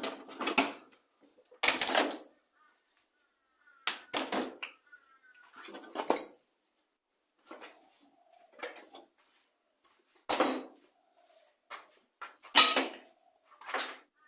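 A series of short clatters and knocks from metal parts and tools being handled on a workbench, about ten separate bursts with pauses between them.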